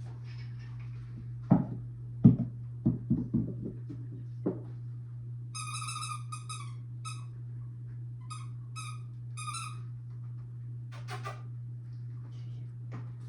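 Several loud, sharp knocks in quick succession, then a run of short high-pitched squeaks coming in small groups, and a brief rattle near the end, over a steady low hum.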